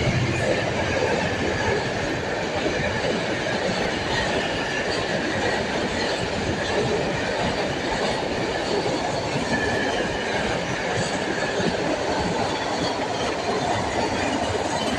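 A train running past on the track: a steady rumble of wheels on rail, with a faint high wheel squeal that comes and goes.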